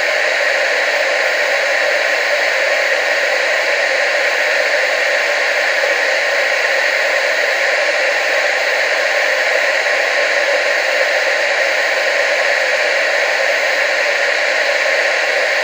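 Steady, unchanging TV static hiss, strongest in the middle and upper range with almost no low end.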